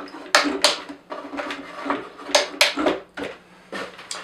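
Clip-on leg extenders on a 3DR Solo quadcopter being snapped up and the leg sliders pushed back in: a series of sharp clicks and knocks, several in quick pairs.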